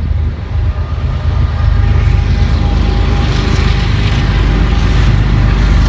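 Diesel locomotive of a CSX freight train running close by: a deep, steady engine drone that grows louder over the first two seconds, then holds.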